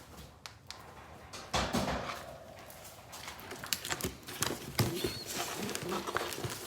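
Irregular knocks, taps and scuffling from young racing pigeons being handled in and out of a cardboard shipping box and cage, with a louder thump about a second and a half in and quicker tapping near the end.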